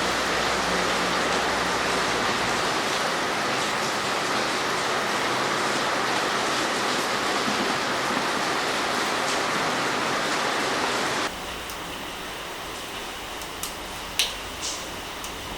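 Heavy rain falling steadily. About eleven seconds in it cuts abruptly to quieter rain with a few sharp ticks of drips.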